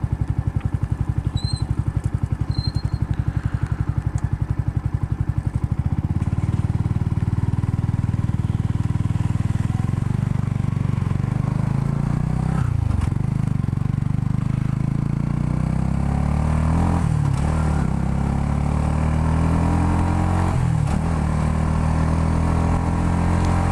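Yamaha YZF-R125's single-cylinder 125 cc four-stroke engine ticking over steadily, then pulling away and revving up through the gears. The pitch climbs and drops back sharply at each gear change, about four times.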